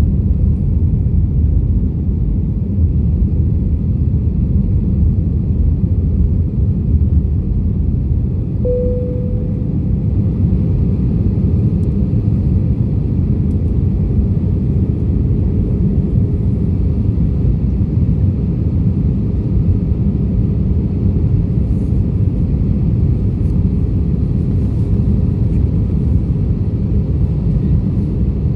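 Airbus A320 jet airliner noise: a steady, unbroken low rumble, with a brief faint tone about nine seconds in.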